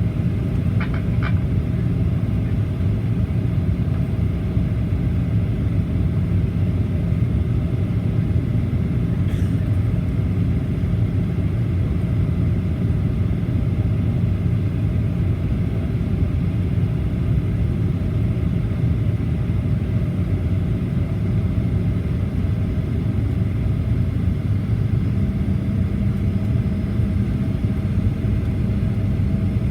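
Steady low rumble of a Boeing 737-800's engines and airflow heard inside the passenger cabin, with a few steady hums running under it. A further steady hum joins near the end, and a couple of faint ticks sound about a second in.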